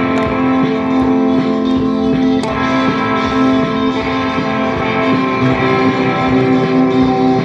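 Music led by guitar, with long held notes and chords and a steady level throughout.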